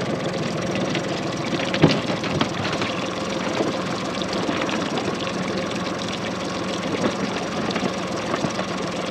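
A boat's engine idling steadily, with a single sharp knock about two seconds in.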